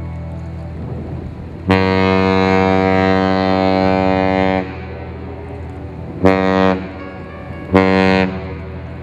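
A ship's horn sounds one long blast of about three seconds, then two short blasts, all at the same steady pitch, over a steady low hum.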